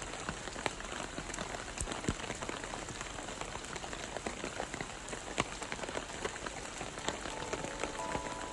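Steady rain falling in a forest, a constant patter with many individual drops striking close by.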